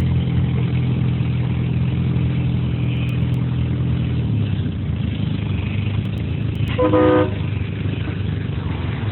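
A car engine idling steadily, its tone stepping a little lower about four seconds in. One short car horn honk about seven seconds in is the loudest sound.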